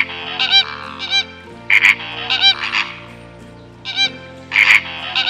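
Flamingo calls: a series of short, goose-like honks in quick groups, with a pause a little past the middle. Steady background music runs underneath.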